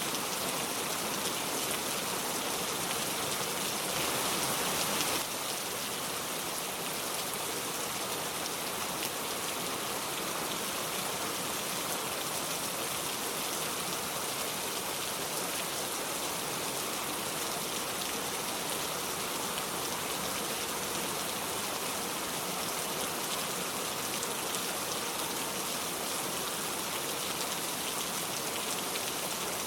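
Steady rain falling, an even hiss. It swells slightly around four seconds in, then drops back suddenly about a second later.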